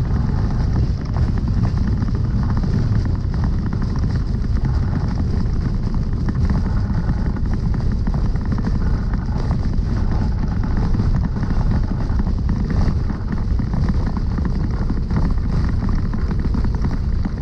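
Cessna 172SP's four-cylinder Lycoming engine and propeller running steadily, a loud, even drone with no pauses.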